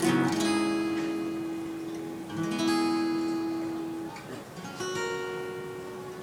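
Acoustic guitar strumming three chords, each left to ring and fade, as the song's closing outro.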